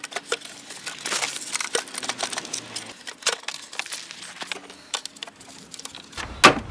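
Scattered light clicks, knocks and rattles of parts being handled as the plastic intake manifold is worked into place, with one sharper knock near the end.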